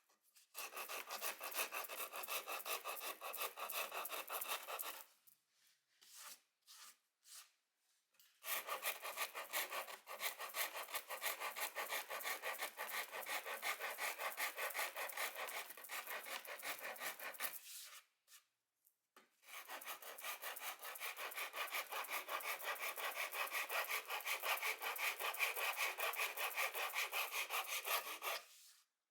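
Rapid back-and-forth strokes of a hand tool working wood, in three long runs broken by two short pauses.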